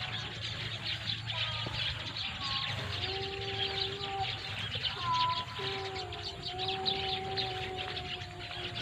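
A large mixed flock of Eurasian tree sparrows and munias chirping constantly in a tree, a dense chatter of many overlapping short calls. Several long held tones, each a second or two, sound underneath.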